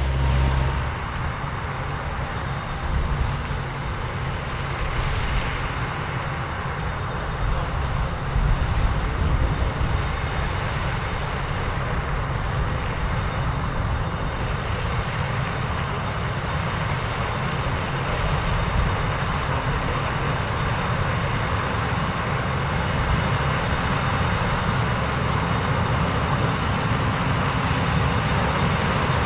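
Combine harvesters running in a corn field, with a steady low engine rumble and the continuous noise of the threshing machinery.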